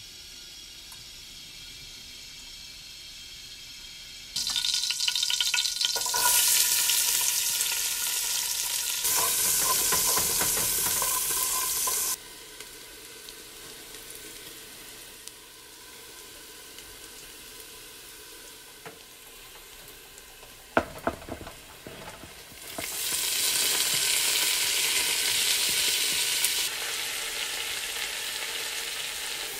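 Chopped red onion and garlic sizzling in hot oil in a stainless steel pot while being stirred. The sizzle starts loudly about four seconds in, dies down midway, where there are a few sharp knocks, and rises again near the end.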